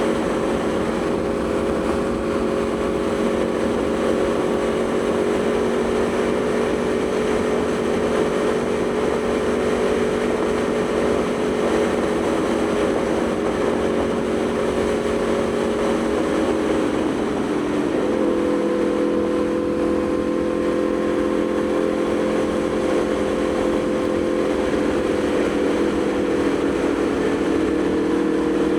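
Aprilia Tuono V4 motorcycle's V4 engine running at a steady cruise, its note holding even over a rushing noise. About 17 seconds in, the pitch dips and then settles a little lower.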